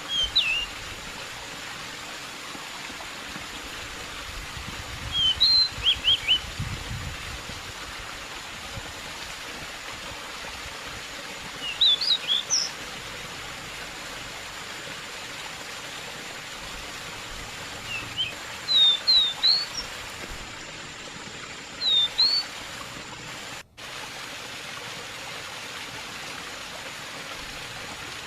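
Steady rush of flowing water under short bursts of high, quick chirping phrases from a pied bushchat, five phrases spaced several seconds apart.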